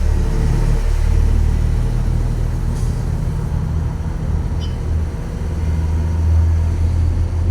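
Truck engine running under way as a steady low drone, swelling slightly about six seconds in.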